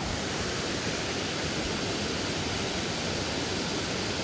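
Water rushing steadily over a shallow river waterfall, an even hiss with no break or change.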